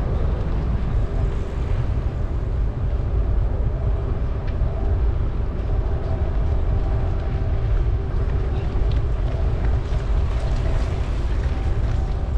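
Steady low wind rumble on the microphone of a camera riding along on a moving bicycle, with the faint sound of the ride underneath.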